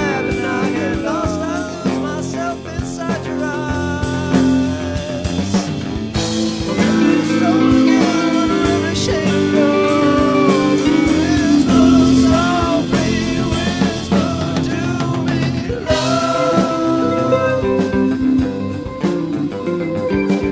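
A psychedelic stoner rock band playing: electric guitar, bass and drum kit. The band gets fuller and louder about six seconds in and again around sixteen seconds.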